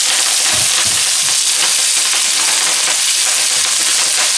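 Olive oil and sliced garlic sizzling steadily in a hot wok as raw kale leaves are dropped in by the handful, with a few soft thumps in the first second and a half.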